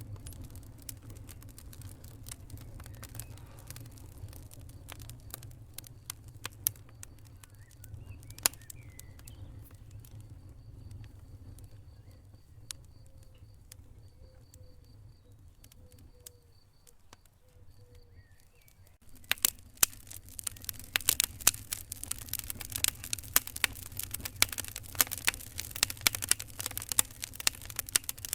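Wood fire crackling over a steady low rumble of flame, with scattered sharp pops at first; about two-thirds of the way through, the crackling turns much denser and louder.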